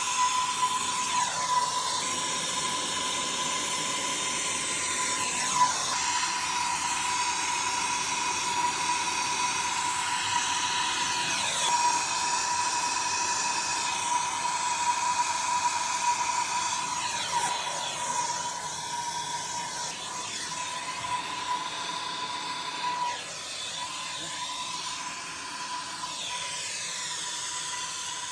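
A soldering torch burning with a steady hiss on a 4-inch copper pipe joint, with a faint falling sweep every few seconds.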